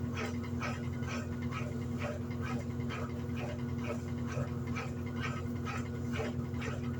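Electrolux LED14 washing machine running: a steady motor hum under a quick, even run of short swishing pulses, two or three a second.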